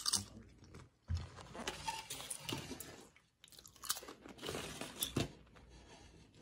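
A person crunching and chewing potato chips close to the microphone, in irregular bursts of crunches.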